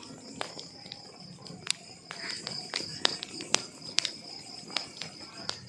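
Wood fire crackling: logs popping and snapping in sharp, irregular cracks over a soft low rumble of the flames, with a steady high-pitched tone running underneath.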